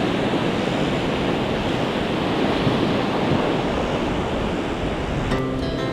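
Steady rushing of ocean surf on a beach, mixed with wind on the microphone. Music comes in near the end.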